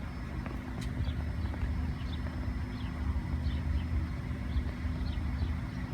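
Rail multi-purpose vehicle (MPV) passing the level crossing: a steady low diesel rumble with a constant low hum over it.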